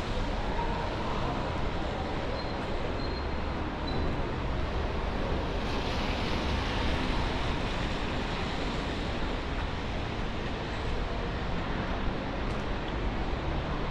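Steady city street noise on a rainy day: traffic running on wet roads, a continuous hiss over a low rumble.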